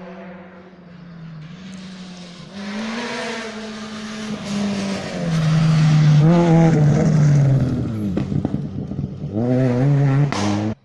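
Rally car approaching and passing close at speed. Its engine note falls as it slows for a corner, with quick throttle blips on the downshifts, then it accelerates again before the sound cuts off abruptly.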